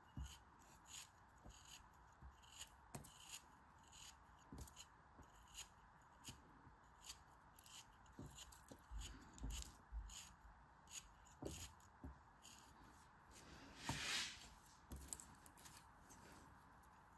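Close handling sounds of unpacking: a run of light, irregular clicks and crinkles, about one or two a second, with a louder, longer rustle about fourteen seconds in.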